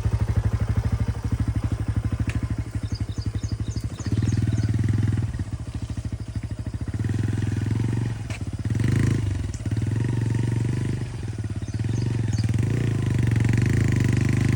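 Motorcycle engine pulling at low speed over a rough hill track, its firing pulses slow at first, then louder from about four seconds in, with the throttle repeatedly eased off and opened again.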